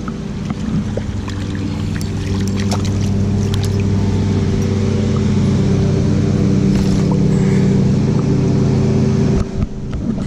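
A steady engine hum that grows a little louder, with scattered light clicks in the first few seconds.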